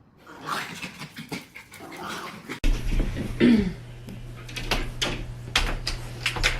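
A dog whimpering and panting, with a short whine that glides in pitch. A run of sharp clicks fills the second half.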